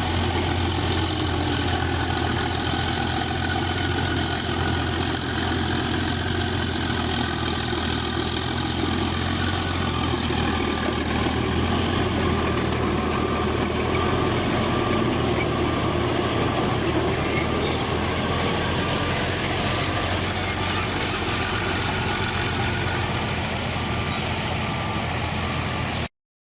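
Bulldozer's diesel engine running steadily with a low drone, cutting off suddenly near the end.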